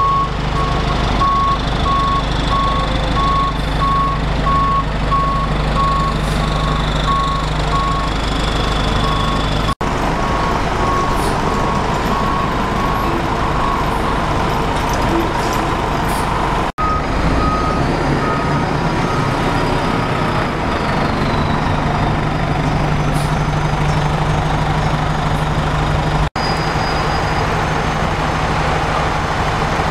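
Heavy truck engine running steadily with a reversing alarm beeping over it. A higher-pitched beeper sounds a few seconds past the middle. The sound cuts out abruptly three times.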